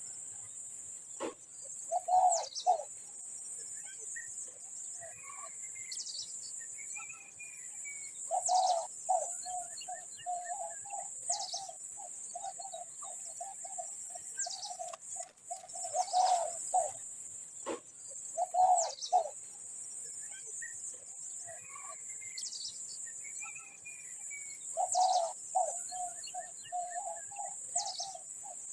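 Birds calling: short high notes that drop in pitch, repeated every few seconds, and several runs of low, rapid pulsed notes, over a steady high-pitched hiss.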